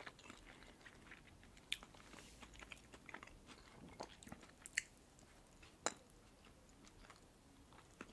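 Soft, close-miked chewing of a red caviar sandwich on bread, with scattered small wet clicks and pops.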